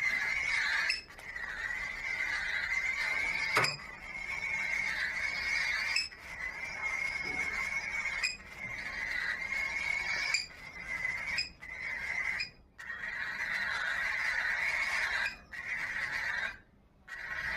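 Cockatiel chick giving its raspy food-begging call: long drawn-out rasping calls, broken by short gaps every second or two.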